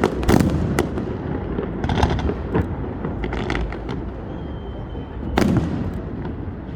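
Fireworks going off: a string of sharp bangs and crackles over a steady low rumble, the loudest bang about five and a half seconds in. A brief high whistle comes just before it.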